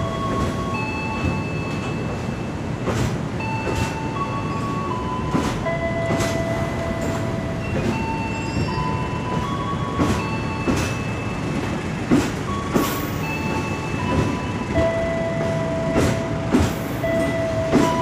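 Electric commuter train cars rolling past close by, with regular clicks of the wheels over rail joints over a steady rumble. High whining tones sound over it and step up and down in pitch every second or two.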